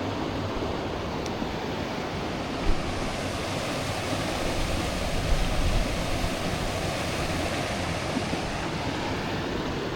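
Steady rush of water falling over the Jagala River's falls, with wind buffeting the microphone.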